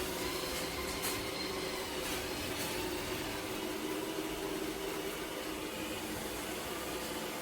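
eufy X10 Pro Omni robot vacuum and mop running: a steady motor whine over a hiss of suction, with a few faint ticks in the first three seconds.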